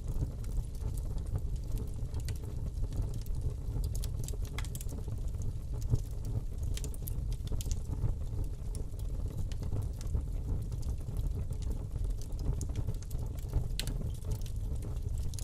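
Fire burning in a fireplace: irregular sharp crackles and pops over a steady low rumble of the flames, one louder pop about six seconds in.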